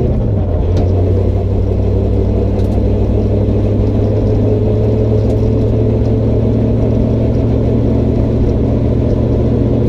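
Car engine running steadily at low revs, an even low rumble that dips slightly in pitch just after the start.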